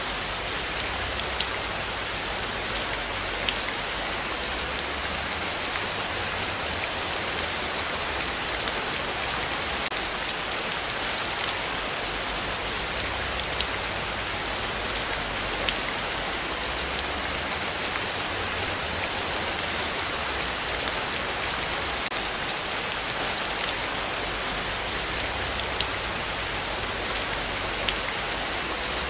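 Heavy rain falling steadily, a constant hiss with many individual drop hits ticking through it.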